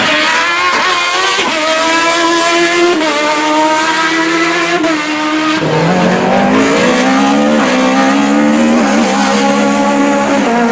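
Racing car engine at full throttle, its note broken by quick gear changes every second or so. A little past halfway the revs drop sharply, then climb again as it pulls back up through the gears.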